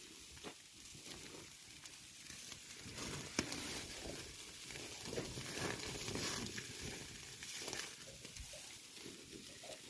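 Mutton kebab meat sizzling as it cooks: a steady hiss with occasional sharp pops.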